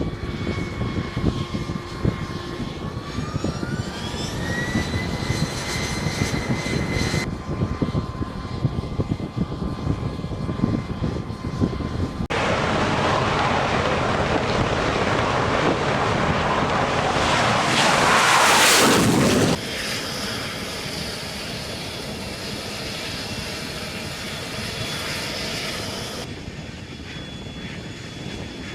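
Jet aircraft engines heard across several abrupt cuts. First a turbine whine rises in pitch a few seconds in. Then comes a loud rushing jet noise that swells to its loudest just past the middle and cuts off suddenly, followed by a quieter, steadier run with a thin high whine.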